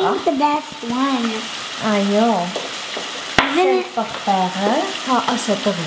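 Grated carrot, onion and tomato sautéing in a stainless steel pan: a steady sizzle, with a wooden spoon stirring and a sharp tap about three and a half seconds in. Voices talk over it.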